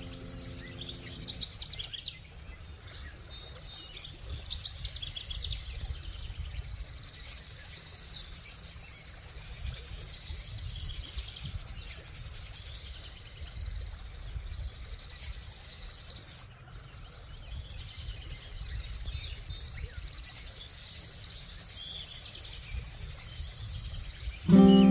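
Outdoor field sound of birds chirping and calling over a steady low rumble. A held musical chord fades out in the first second or so, and a plucked acoustic guitar comes in loudly right at the end.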